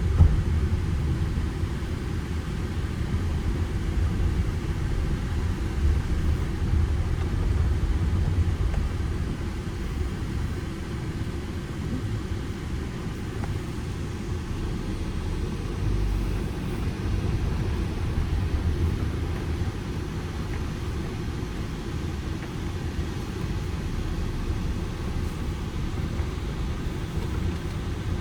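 Ford Transit Connect van's petrol engine and road rumble heard from inside the cabin while driving, a steady low drone that swells and eases a few times.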